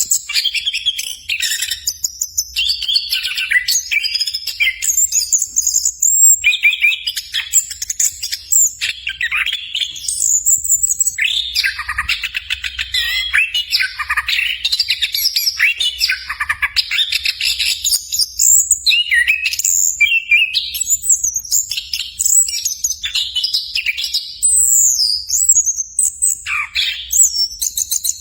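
Orange-headed thrush singing a long, nearly unbroken run of rapid, varied whistled phrases, changing pitch constantly with only brief breaks between bursts.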